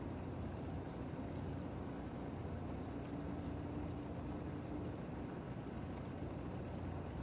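Harbour ambience: a steady low rumble. A faint steady hum rises above it about three seconds in and fades about two seconds later.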